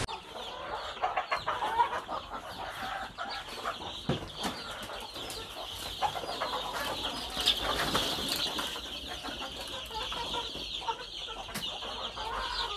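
A flock of Fayoumi chicks peeping continuously, a dense high chirping with many overlapping calls.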